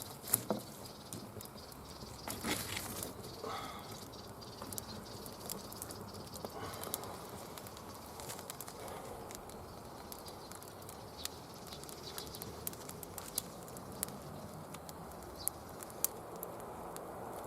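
Wood campfire crackling and popping, with irregular sharp snaps from the burning logs. A couple of louder knocks come in the first few seconds.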